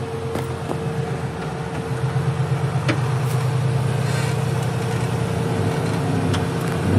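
Off-road 4x4's engine running at low speed, pulsing from about two seconds in, with a few sharp knocks.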